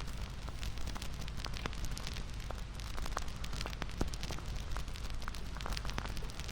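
Wood fire crackling: a steady low rumble of burning with many small sharp pops and snaps scattered irregularly throughout.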